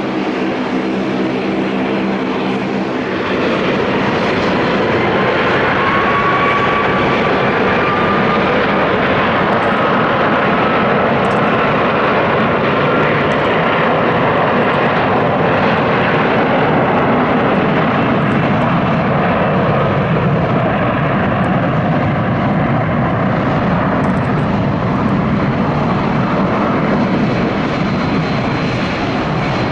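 Thai Airways jet airliner's engines spooling up to takeoff power about three seconds in, then running loud and steady through the takeoff roll and climb-out, with a whine that rises slowly in pitch.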